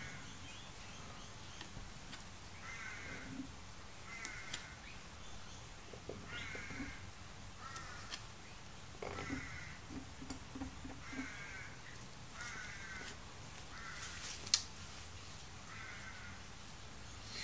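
Faint bird calls repeated over and over, about one a second, each short and harsh. A single sharp click near the end is the loudest sound.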